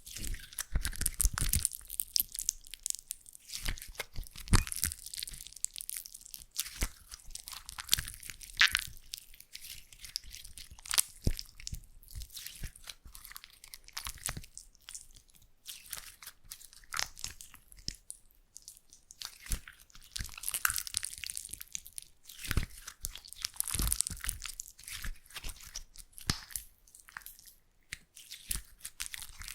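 Slime being squeezed and pressed close to the microphone: irregular crackles, sharp pops and clicks, with short hissing squishes that come and go.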